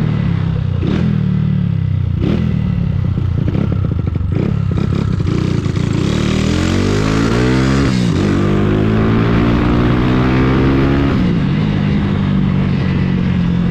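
Honda CG Titan 150's single-cylinder four-stroke engine pulling the motorcycle through the gears. The pitch climbs for a few seconds, dips at a shift about eight seconds in, climbs again, then drops at another shift near eleven seconds and holds steady. A few sharp knocks come in the first few seconds.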